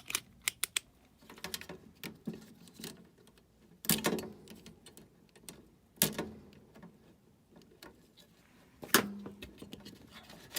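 Metal hand tools being handled: scattered light clicks and clinks, with three louder knocks about four, six and nine seconds in.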